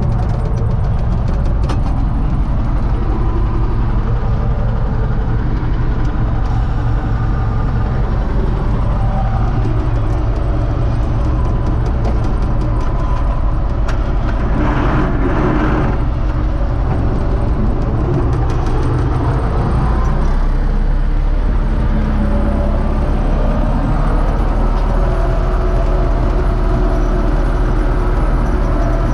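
A U650 tractor's diesel engine runs steadily under load, pulling a SUP-21 seed drill. About halfway through there is a brief louder noise, and about two-thirds of the way in the deep rumble grows stronger.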